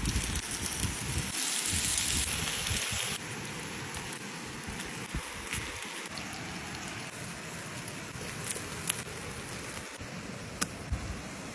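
Meat sizzling over a fire: a steady hiss with scattered sharp crackles. The hiss is louder for about two seconds near the start.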